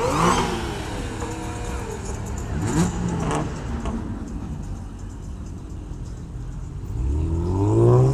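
A vehicle engine revving: a rev that falls away at the start, a short blip near three seconds, and a longer climb in pitch in the last second or so.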